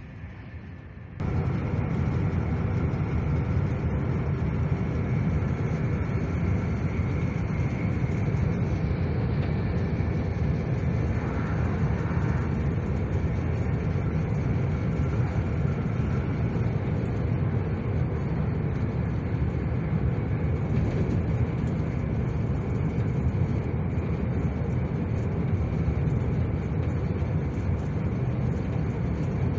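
Steady rumble of an SJ passenger train running along the track, heard from inside the carriage. It starts suddenly about a second in.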